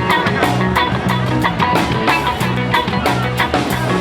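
Live rock band playing an instrumental passage between sung lines: electric guitar, bass and drums with a steady beat.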